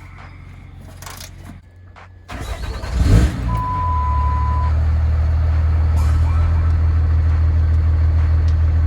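Dodge Ram Mega Cab's Cummins diesel cranking and firing up about three seconds in, then idling steadily through its 5-inch exhaust, with a single steady beep just after it catches.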